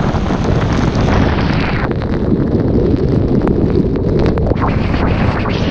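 Wind buffeting the camera's microphone: a loud, rough rumble with a few short clicks.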